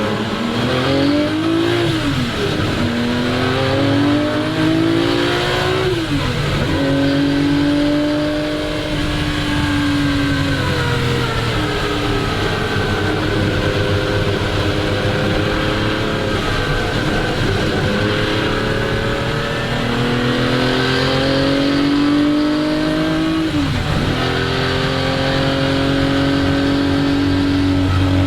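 1961 Ferrari 250 GT SWB's three-litre Colombo V12 pulling through the gears. The engine note climbs and then drops sharply at upshifts about two seconds in, about six seconds in and near the end. In the middle it sinks slowly, as the driver eases off, then climbs steadily again.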